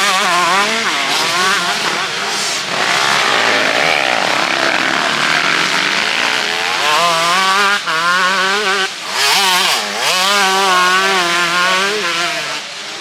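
Motocross motorcycles racing, their engines revving up and down with the throttle, cut briefly twice about two-thirds of the way through before picking up again.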